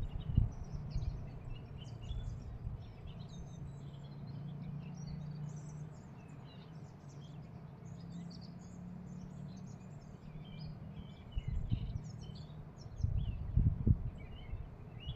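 Small birds chirping and singing, many short high calls overlapping. Low rumbles come and go near the start and again in the last few seconds, and a faint steady low hum lies underneath in between.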